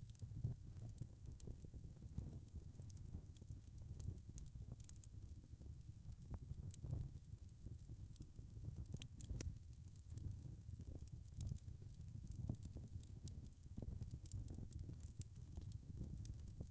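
Wood fire crackling: frequent small pops and snaps over a low, steady rumble.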